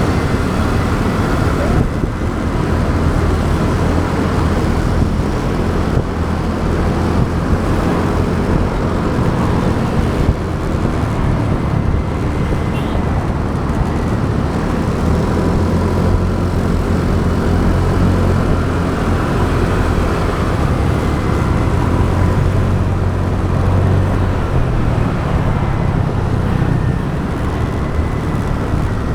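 Motorbike riding in road traffic, heard from a camera on the bike: a steady, loud rumble of the engine, wind and surrounding traffic.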